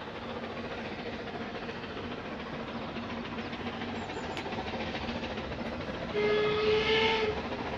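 Peckett 0-4-0T tank locomotive working uphill, with a steady rush of steam and running noise, then one whistle blast of about a second, about six seconds in.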